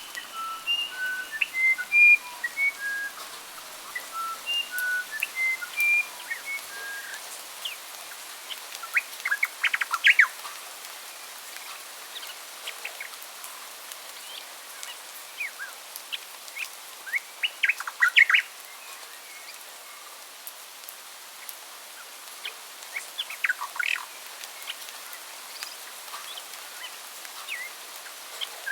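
Songbirds singing: a run of short, clear whistled notes at shifting pitches for the first several seconds, then bursts of quick chirps every several seconds, over a steady background hiss.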